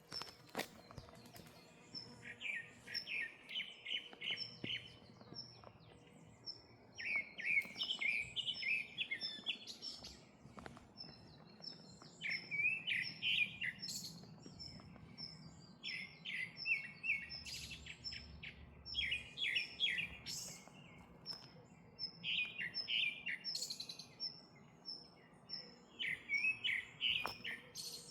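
Wild songbirds singing: one bird repeats a short, fast chirping phrase every few seconds, over a steady run of short high notes about twice a second.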